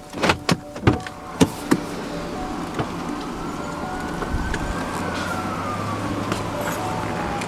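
Five or six sharp clicks and knocks in the first second and a half, then a vehicle running, with a whining tone that rises slowly and falls again.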